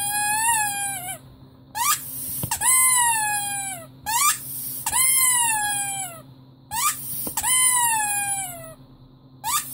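Rubber squeaky toy squeezed and released over and over, about once every two and a half seconds. Each cycle gives a short upward squeak followed by a longer squeak that rises a little and then falls in pitch.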